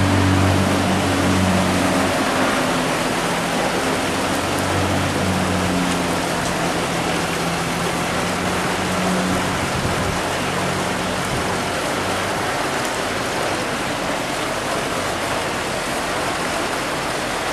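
Heavy rain and running floodwater make a steady hiss throughout. A vehicle engine drones low over the first part and fades out about two-thirds of the way through.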